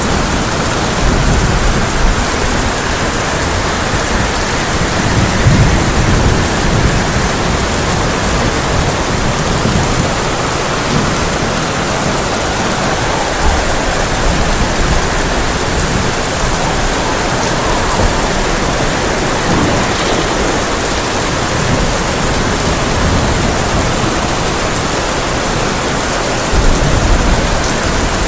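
Heavy rain falling on a tin roof as a dense, steady hiss, with low rumbles of thunder swelling about a second in, around five seconds in, and again near the end.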